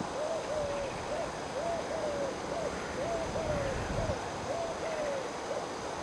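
A bird calling a rapid series of short, low hooting notes, about three a second.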